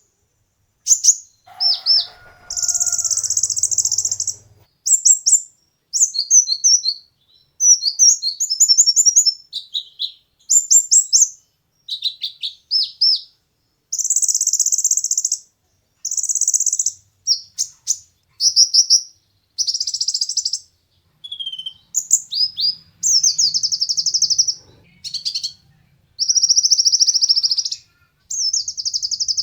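Kolibri ninja (konin) sunbird singing a long run of high-pitched song, with fast chattering trills and quick chirp phrases, each about a second or two long, separated by short pauses.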